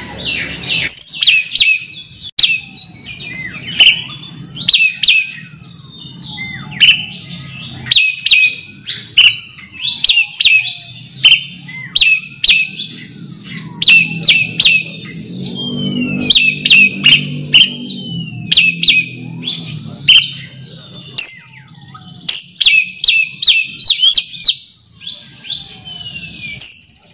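Oriental magpie-robin (kacer) singing a rapid series of sharp, high whistled and chattering notes, the call used to challenge a rival. A low hum sits underneath for several seconds midway.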